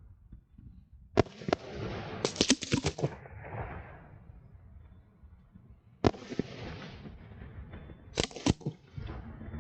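Aerial fireworks bursting: a sudden bang about a second in, followed by a rapid string of sharp cracks, then another bang about six seconds in and two more cracks shortly after, each trailing off into a rumbling echo.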